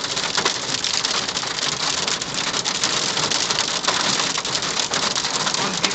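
Hail and heavy rain pelting down in a steady hiss, dense with sharp ticks of stones striking a hard surface.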